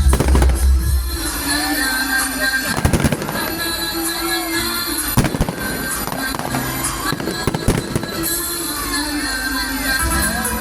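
Fireworks going off: sharp bangs, the biggest about three seconds in and more around five and eight seconds, with whistling glides between them and music playing underneath.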